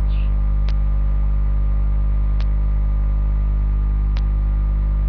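Steady electrical mains hum at about 50 Hz with its overtones, from the recording chain. Four faint ticks come at an even pace, about one every second and three-quarters.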